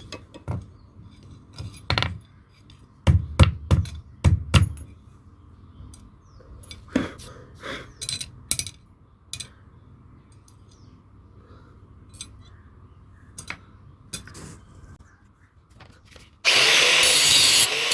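Scattered knocks and clinks of metal tools being handled and set down. Near the end, a loud, steady rasping of metal being worked starts abruptly.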